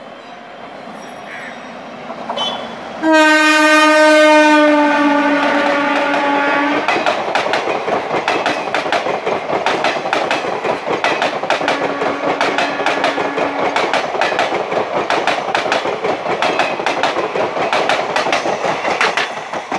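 WAP7 electric locomotive's horn sounding loudly for about four seconds, dropping slightly in pitch as the engine passes. Then ICF passenger coaches rush by at speed with a rapid clickety-clack of wheels over the rail joints.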